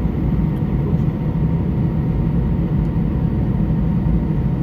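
Airbus A320 cabin noise on the ground before takeoff: a steady low rumble from the running engines, with faint steady whine tones above it.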